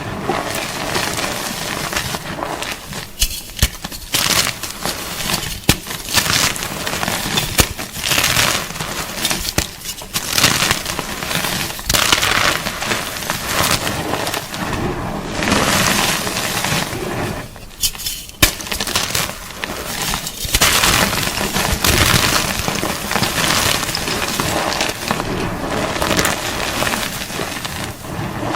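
Gym chalk (magnesium carbonate) being crunched and crumbled: a dense run of crisp, crackly crunches with a few short pauses.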